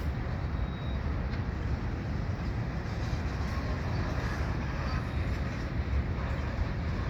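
Oil-train tank cars rolling past, a steady low rumble of steel wheels on the rails.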